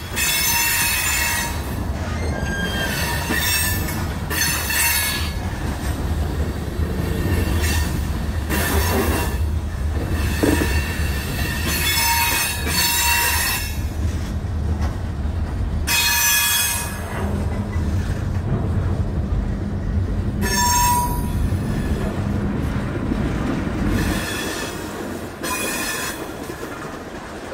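Freight cars of a manifest train rolling past close by: a steady low rumble of wheels on rail, broken every few seconds by high-pitched wheel squeals. The rumble thins out about 24 seconds in.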